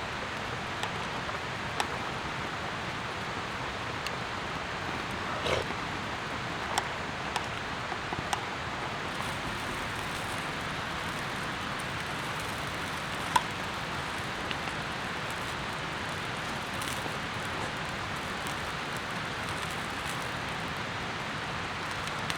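Steady rain hiss with scattered sharp ticks of drops, the loudest about 13 seconds in.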